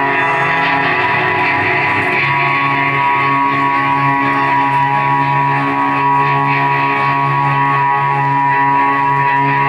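Live band playing a slow, droning passage: long held tones over a steady low note, with no clear drum hits.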